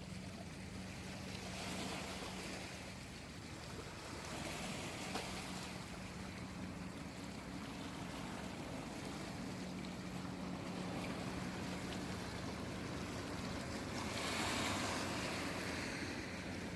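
Gentle sea waves washing ashore, swelling every few seconds, with the biggest surge near the end. A faint steady low hum comes and goes underneath.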